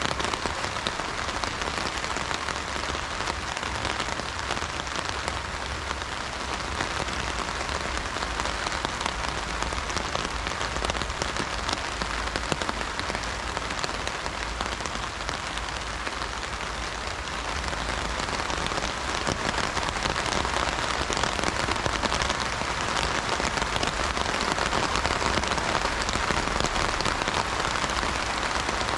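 Heavy rain drumming on an umbrella canopy in a dense, steady patter of countless drops, growing a little heavier about two-thirds of the way through.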